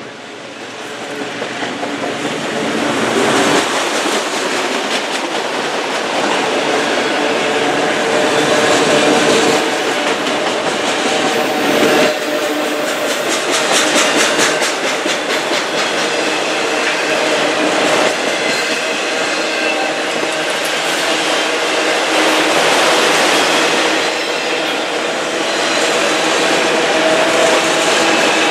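CN autorack freight train passing close by, a steady rumble of cars with wheels clattering over the rails; it swells over the first few seconds and then holds loud and even.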